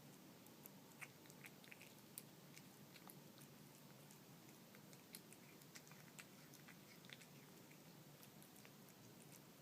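A cat chewing canned cat food that contains small dried fish: faint, irregular chewing clicks.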